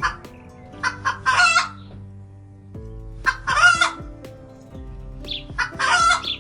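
Chicken clucking, then three loud, longer calls about two seconds apart, over background music with held notes.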